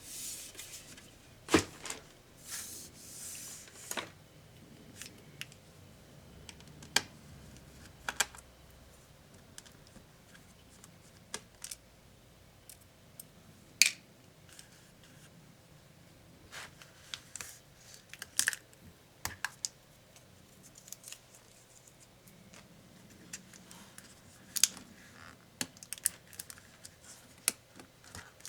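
Irregular sharp clicks, taps and short scrapes of small hand tools against the plastic and metal parts of an Acer Swift SFX14-41G laptop as it is taken apart, with a longer scraping stretch about two to four seconds in.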